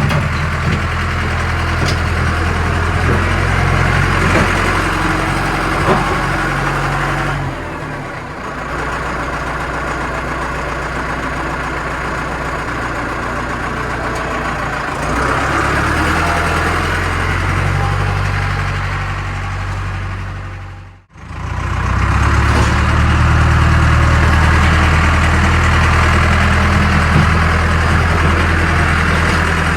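AGCO 6670 loader tractor engine running steadily, growing louder and quieter by turns as the loader works. The sound cuts out abruptly for a moment about two-thirds of the way through.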